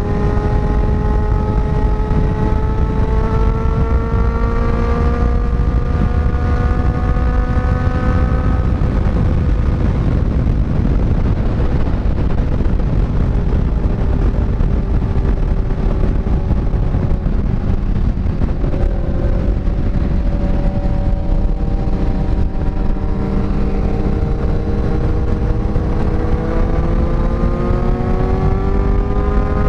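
Sport motorcycle engine pulling on the move, its pitch climbing slowly for the first several seconds, fading back under heavy wind rush in the middle, then climbing again through the second half. Wind rushing over the microphone runs loudly underneath.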